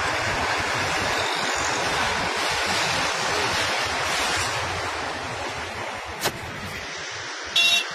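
Passenger coaches of a train rolling along the track just below: a steady rushing noise of wheels on rail that eases as the last coach passes. A sharp click a little after six seconds, then a brief high-pitched tone near the end.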